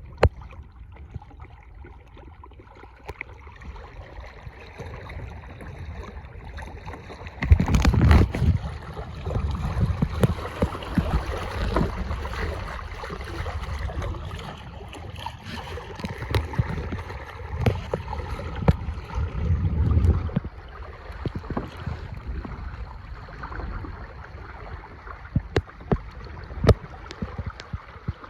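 Water rushing and splashing along the hull of a Hobie kayak under sail, with wind buffeting the microphone. The sound grows much louder and rougher about seven seconds in, with scattered sharp slaps of water.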